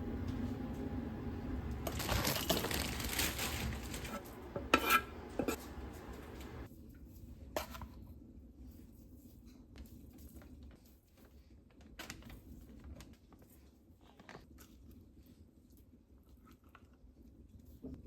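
Kitchen handling sounds: dishes and utensils clinking and knocking, with some packaging rustling, in a busy first few seconds, then sparse clicks and taps over a quiet background.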